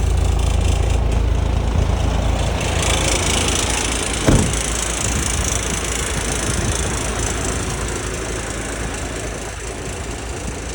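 Sitrak T7H tractor truck's engine idling, a steady low rumble that slowly fades. A hiss comes in about two and a half seconds in, and there is one short knock a little after four seconds.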